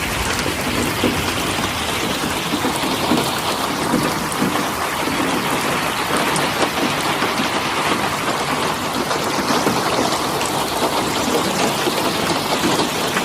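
Rain falling steadily: a dense patter of drops over an even rushing hiss.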